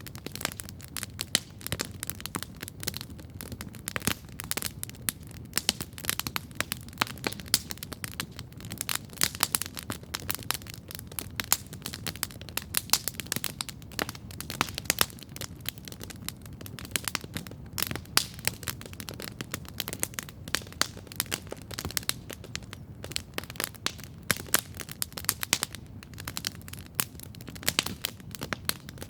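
Wood campfire crackling steadily, with frequent irregular sharp pops and snaps over a low steady rumble.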